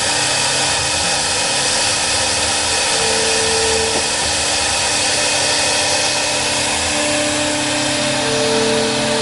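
CNC router's spindle running, a loud steady machining noise, with a tone that rises out of it for a second or so about three seconds in and again near the end.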